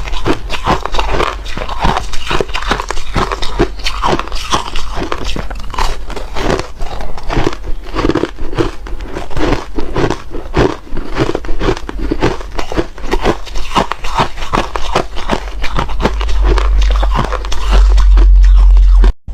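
Ice being chewed close to the microphone: dense, rapid crunching that goes on without a break. Near the end a loud low rumble swells, and then the sound cuts out for a moment.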